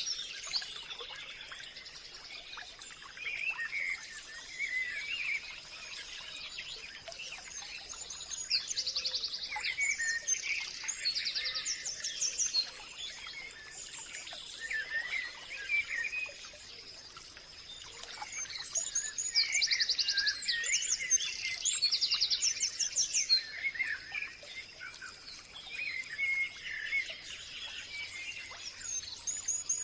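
Several birds chirping and singing together, with rapid high trills that come in clusters among shorter chirps. A faint steady high tone runs underneath.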